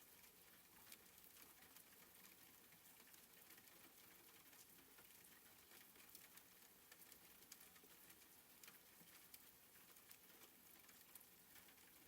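Faint soft rain: a steady light hiss with many small drops pattering.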